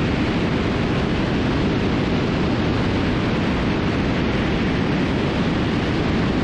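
Steady, even rush of airflow and engine noise from a Cessna T310R twin in flight, heard at a camera mounted out on the wing.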